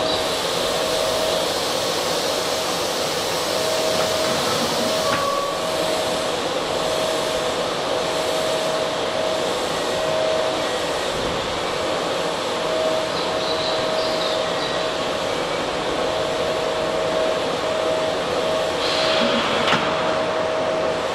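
Keihan 13000-series commuter train standing at an underground station platform: a steady fan-like hiss from its running equipment, with a steady tone that breaks off now and then. A short knock sounds near the end.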